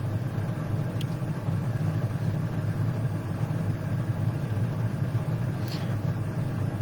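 Steady low hum with no speech, joined by a faint click about a second in and a brief soft hiss near the end.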